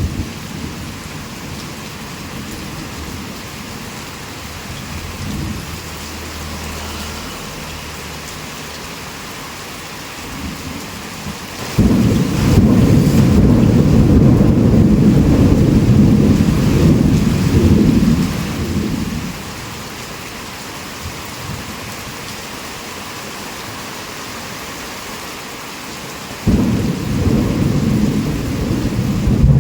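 Steady heavy rain with thunder: a loud low rumble breaks in suddenly about twelve seconds in and rolls for about seven seconds, and a second starts suddenly a few seconds before the end.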